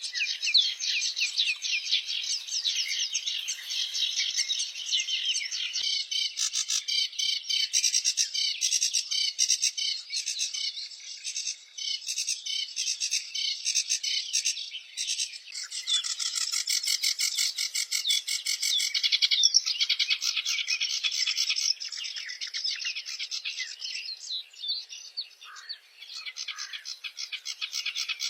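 Many small birds singing together in a dense, continuous chorus of fast high chirps and trills.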